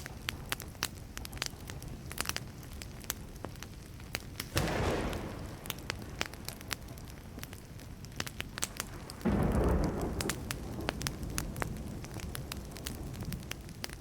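Wood fire crackling with frequent sharp pops. Twice, about four and a half and about nine seconds in, a low rumble of thunder comes in suddenly and fades over a second or two; the second rumble is the louder.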